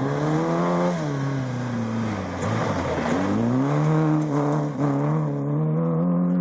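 A rally car's engine at high revs. The revs climb, fall away from about a second in to a low point around two and a half seconds, then climb again, with a brief dip like a gear change near five seconds, before holding high.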